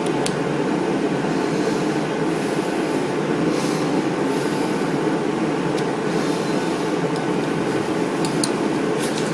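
A steady low rushing drone of running machinery, with a few light metal clicks, clustered near the end, as a screwdriver pries at the retaining clip on a Briggs & Stratton starter's pinion gear.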